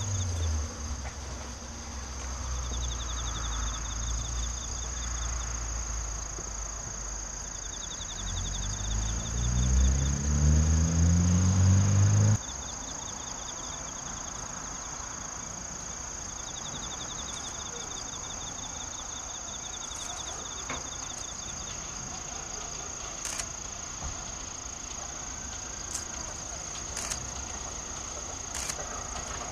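Old electric railcar's traction motors accelerating, a low rumble with a hum rising in pitch, cut off suddenly about twelve seconds in. After that, insects chirp and buzz: a continuous high buzz with a pulsing trill repeated several times, and a few faint ticks near the end.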